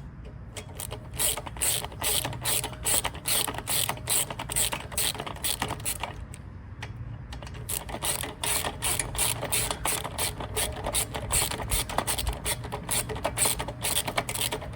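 Hand socket ratchet clicking in quick runs of strokes, with short pauses, as it loosens the nuts that hold the carburetor and air box on a Honda GCV160 engine.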